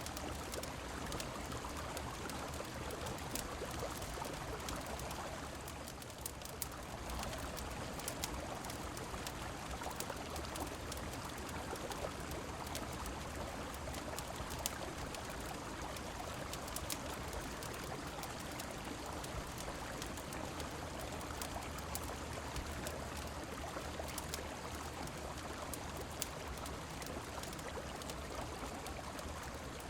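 Steady rush of flowing river water mixed with rain, dotted with scattered small sharp clicks and pops; the water sound dips briefly about six seconds in.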